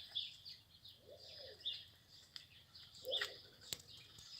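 Small birds chirping repeatedly, short high chirps about twice a second, with a few lower arched calls among them and one sharp click about three and a half seconds in.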